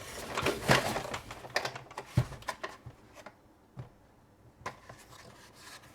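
Plastic toy truck carry case being rolled and handled: a rattling clatter for about two and a half seconds with a sharp knock in the middle, then a few light clicks.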